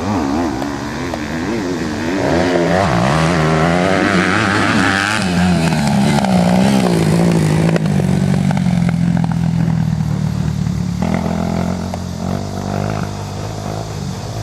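Motocross dirt bike engine revving, its pitch rising and falling again and again with the throttle, loudest in the middle and settling to a steadier note in the second half.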